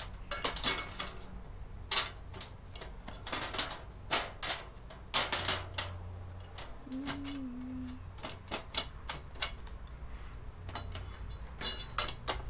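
Parts of a storage cart being handled and pushed together during assembly: irregular clicks, taps and knocks, with a brief low hum about seven seconds in.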